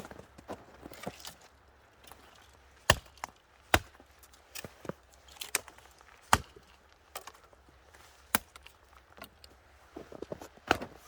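Axe chopping twigs and small branches into kindling: a few sharp, separate strikes a second or more apart, with lighter cracks and snaps between them.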